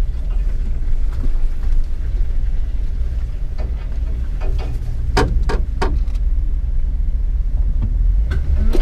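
Jeep engine and drivetrain rumbling low and steady at crawling speed, with a cluster of sharp scratches and snaps about five seconds in: branches scraping along the body, leaving "pinstriping".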